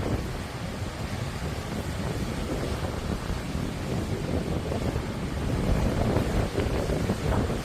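Sea waves washing onto the shore, with strong wind buffeting the microphone into a low rumble. A wave swells a little louder about six seconds in.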